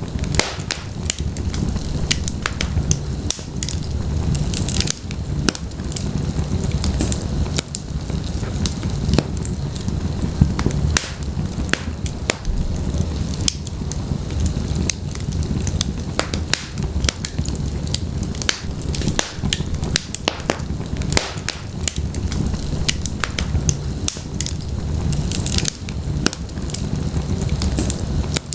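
Wood logs burning in a fireplace: dense, irregular crackles and pops over a steady low rumble of the flames.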